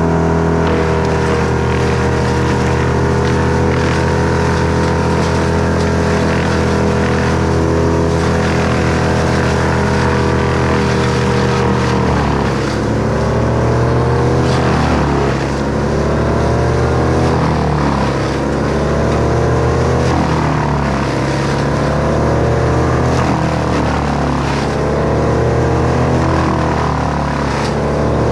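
Two-stroke chainsaw engine running steadily at speed. About halfway through its pitch starts to sag and recover again every two to three seconds, the engine loading and unloading as it cuts.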